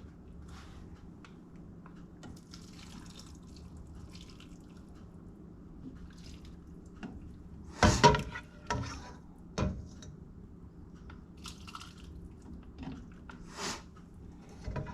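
Chopped bell peppers being spooned into glass canning jars: soft wet drips and small scrapes, with a couple of sharp knocks, the loudest about eight seconds in and another a second and a half later.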